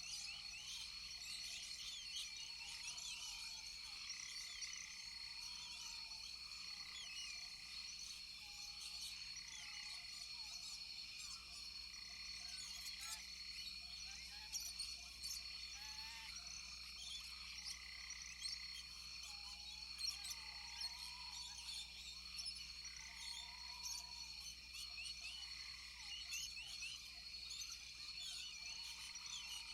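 Rainforest frog and insect chorus: many short chirping calls over a steady high-pitched insect drone, with a lower arched call repeating every couple of seconds.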